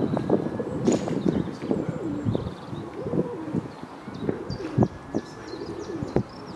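Birds calling: a run of low cooing calls mixed with short knocks, and a few high chirps above them.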